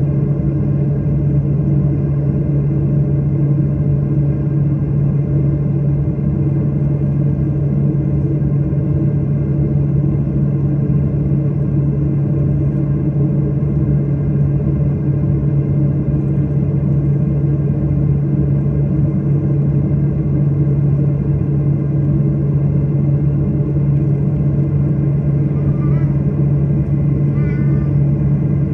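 Steady drone of a jet airliner's engines and airflow heard inside the passenger cabin, a constant low hum with no change in pitch or level.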